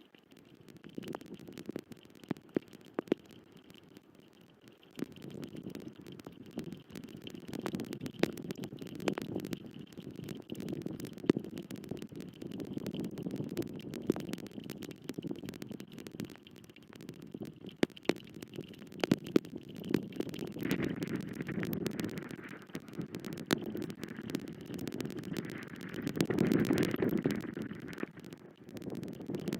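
Wind gusting across a nest camera's microphone: a low rushing that swells and fades, with scattered sharp clicks and ticks.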